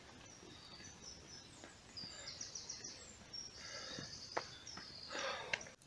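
Faint forest birdsong: quick runs of high chirping notes starting about two seconds in, with one soft click a little after four seconds.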